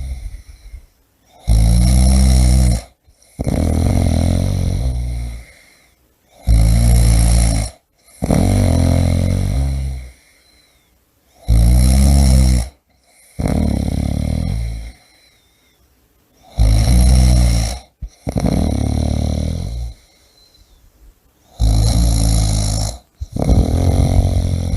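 A person snoring loudly and rhythmically: each breath makes a buzzing snore, then a second rougher one follows close behind, and the pair repeats about every five seconds.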